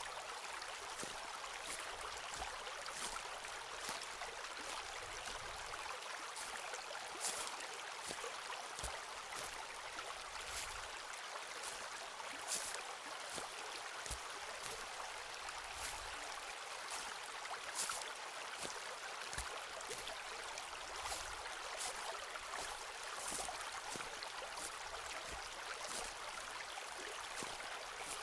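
Footsteps walking on a forest path, a crunching step about every second, over the steady rush of a flowing stream.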